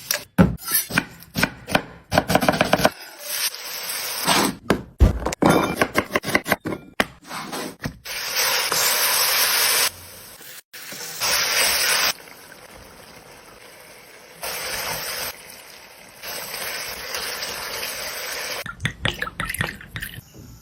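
Kitchen food-preparation sounds, cut together: a run of short scrapes, knocks and liquid sounds, then several stretches of steady hissing that start and stop abruptly.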